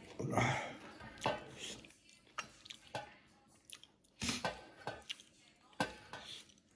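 Close-up eating sounds: chewing and lip smacks of sticky buckwheat dhido eaten by hand, with fingers scraping leftover scraps from a metal plate, in scattered short clicks and smacks.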